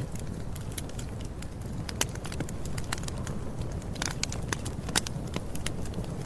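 Campfire burning with a steady low rumble and irregular wood crackles and snaps, two sharper pops about two and five seconds in.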